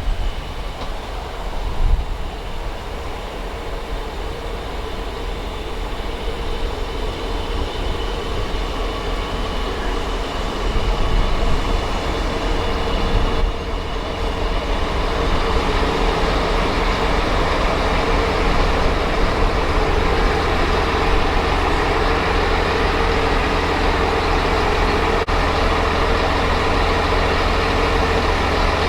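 Diesel train approaching, its engine drone and a steady hum growing gradually louder over the span.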